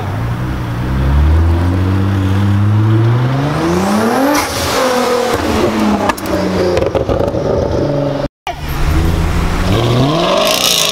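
A Nissan GT-R's twin-turbo V6 accelerates up the road, its engine note rising for about four seconds before it passes close by. After a brief dropout, a second performance car revs up near the end.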